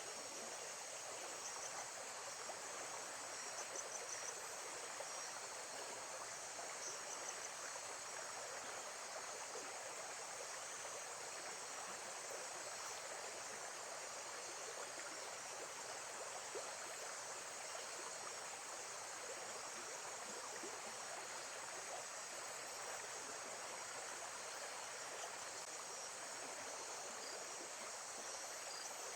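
Lakeside nature ambience: gently running water, steady and even, with insects chirring high and constant behind it.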